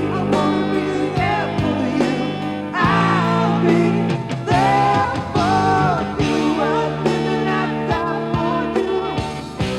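Rock song played back through an AIWA JX619 stereo's speakers, with a full band, steady bass notes and a gliding melodic lead line.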